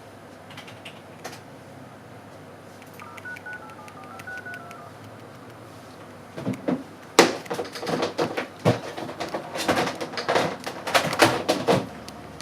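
Phone keypad tones: about ten short dual-tone beeps stepping up and down in pitch as a number is dialled. Then a fast, irregular run of loud sharp clicks and knocks that lasts several seconds.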